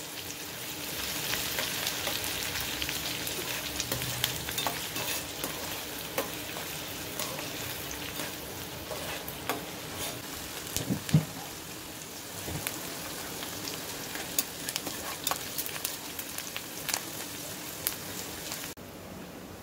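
Chopped onion and green chillies sizzling in hot oil in a frying pan, stirred with a metal spatula that clicks and scrapes against the pan now and then. The sizzle cuts off suddenly near the end.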